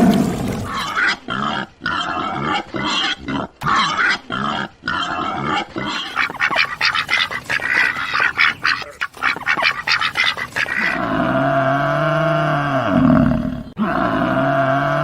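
Farm animal calls: a long run of rapid, choppy grunting sounds, then about eleven seconds in two long calls whose pitch rises and falls.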